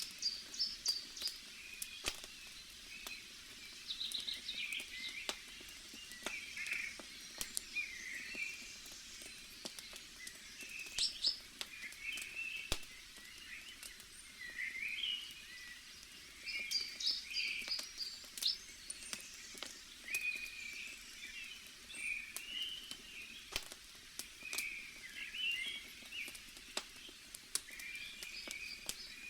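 Wood fire crackling, with sharp scattered pops and snaps, under a continuous chorus of small birds chirping and twittering.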